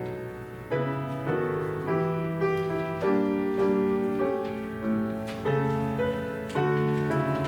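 Slow piano music: sustained chords struck one after another, each fading before the next.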